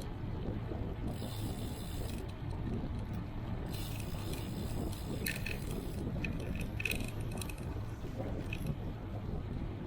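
Steady wind and road rumble on the microphone of a bicycle being ridden, with two short spells of rear freewheel ticking while coasting and a few sharp clicks about halfway through.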